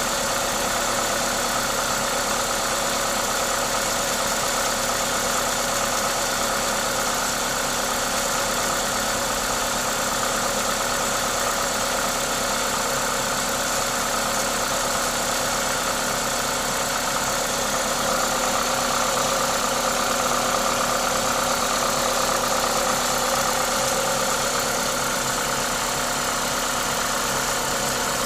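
Toyota 2ZZ-GE 1.8-litre four-cylinder engine idling steadily, with a hiss from its aftermarket induction kit. The owner presents it as the engine's normal noise.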